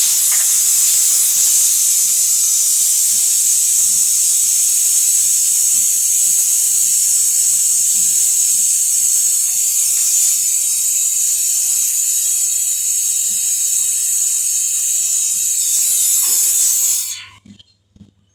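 Pressurised gas hissing out in a loud, steady, high hiss that cuts off suddenly about seventeen seconds in.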